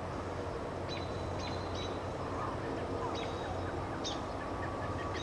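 Steady distant drone of a low-flying turboprop aircraft, taken for an MQ-9 Reaper drone, heard as a low hum with a faint thin whine joining about four seconds in. Short high bird chirps break in every second or so.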